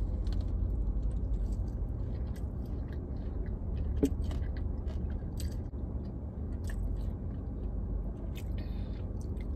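Mouth biting into and chewing a breaded fried chicken sandwich, with scattered small crunches and one sharper click about four seconds in, over a steady low hum.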